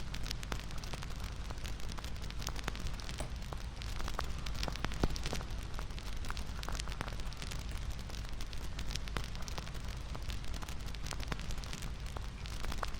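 Wood fire crackling: frequent sharp, irregular pops and snaps over a steady hiss of burning.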